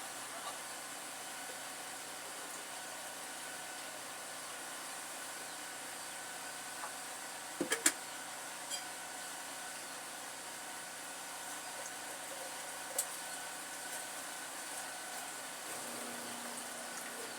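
Steady hiss of kitchen background noise, with a quick cluster of light clinks about eight seconds in and a single click later.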